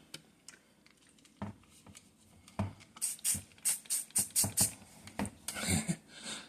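Trigger spray bottle of OdoBan squirted into the dishwasher, about seven quick hissing spritzes in a row midway, after a couple of soft knocks and followed by a louder rustling clatter near the end.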